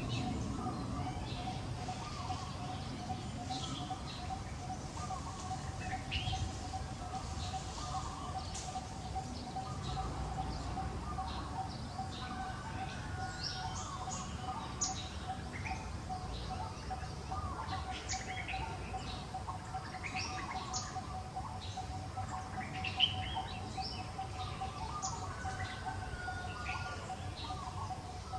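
Many short bird chirps and calls scattered throughout, over a steady high hum and a low rumble.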